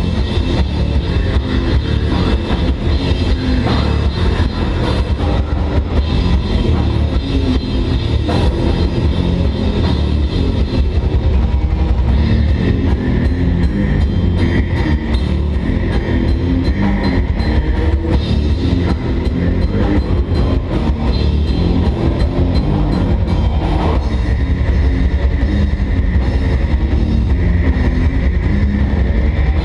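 A metal band playing live at full volume: drum kit and guitars with a heavy low end, the drumming turning into fast, dense strokes through the middle of the stretch.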